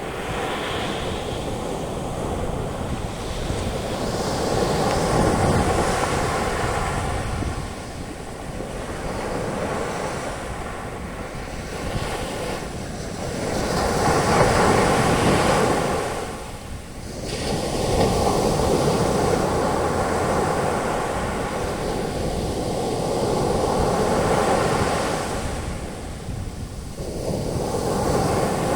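Ocean waves breaking on a beach and their foam washing up the sand, a steady rushing surf that swells and ebbs every few seconds. Some wind is in it too.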